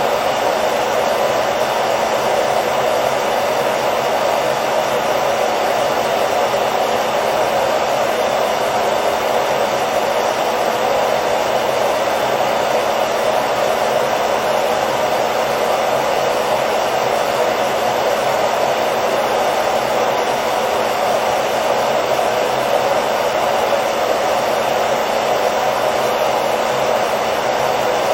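Hair dryer running steadily, an even whooshing noise of fan and airflow with a faint motor hum beneath it, used as continuous white noise for a baby's sleep.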